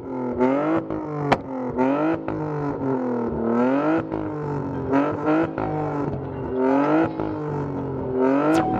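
Car engine revved over and over, its pitch rising and falling about once a second, with a couple of sharp pops.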